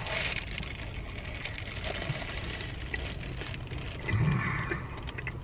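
A man bites into a fried dough sandwich and chews it, the lightly crisp fried dough faintly audible over the low background hiss. About four seconds in he gives a short closed-mouth hum of enjoyment.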